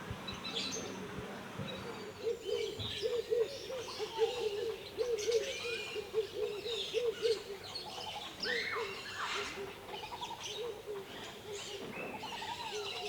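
Several birds calling in a large walk-through aviary: a fast series of low hooting notes, about three a second, for several seconds, over scattered higher chirps and whistles.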